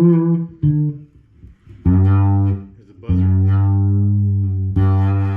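Vintage fretless Fender Precision Bass played alone. It sounds two short plucked notes, then three long sustained notes.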